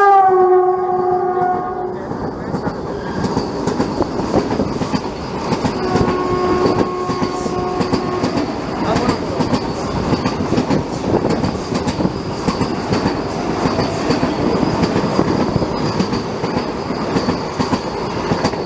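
Passenger train running, heard from on board: loud wheel-on-rail rattle and clatter with a thin high whine. A train horn is ending at the start, its pitch dropping slightly, and a fainter horn blows for about two seconds around six seconds in.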